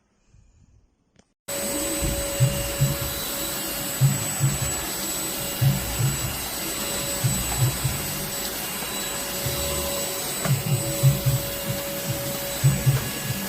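Russell Taylors V5 cordless vacuum cleaner running with a steady whine, starting suddenly about a second and a half in, with irregular low thumps over it.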